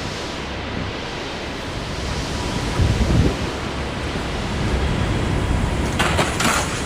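Fast-flowing floodwater rushing in a steady roar of noise, with a louder low rumble about three seconds in.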